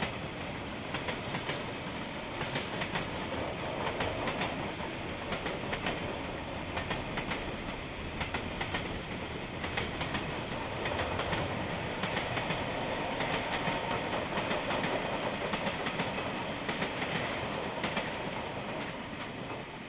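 KiwiRail train passing, a steady rush of rolling noise with frequent clicks of its wheels over the rail joints.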